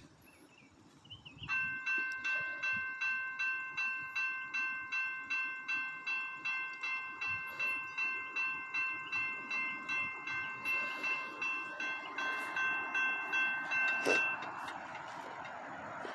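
Railroad grade-crossing bell ringing in even strikes, a little over two a second, stopping about 14 seconds in, then a rising rush of train noise as the train comes through.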